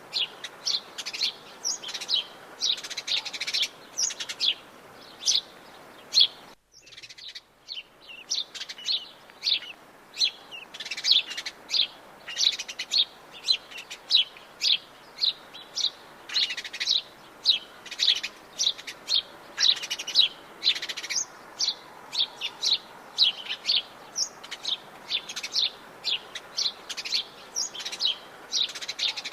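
Many wild forest birds chirping and singing, a dense, overlapping chorus of short high calls and trills. About seven seconds in, the sound drops out abruptly for under a second before the chorus resumes.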